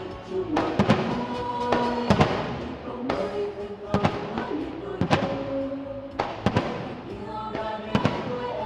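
Aerial firework shells bursting, a sharp bang roughly every second, some in quick pairs, over music with long held notes.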